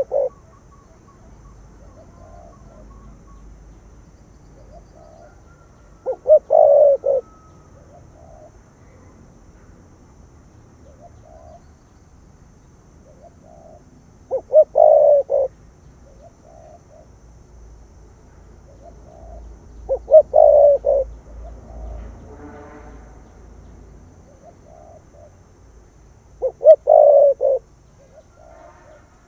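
Spotted dove cooing in the call style that fanciers call "thổ cấn bầu 3 hậu thúc": a phrase of several low coos about every six seconds, with fainter coos between the phrases.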